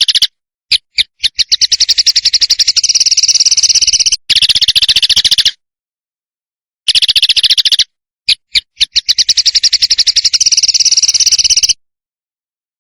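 Songbird training recording: a rapid rattling trill (besetan) of evenly spaced notes, about a dozen a second. It comes in two long phrases, each opened by a few separate sharp notes, with dead-silent edited gaps between them.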